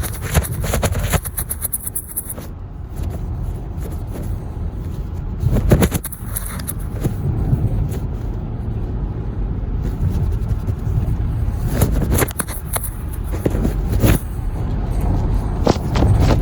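Car driving: a steady low rumble of road noise, with a hiss that swells and fades and a few brief louder surges.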